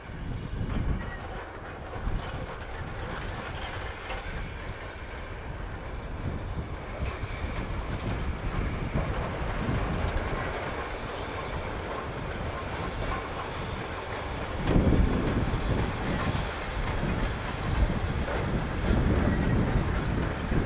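Steam-hauled train running past on the rails, a steady rumble of wheels and carriages that grows louder about fifteen seconds in.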